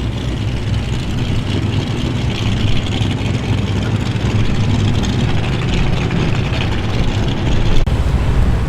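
Ford Falcon XY GT V8 running at low revs as it rolls slowly past, a steady low engine note.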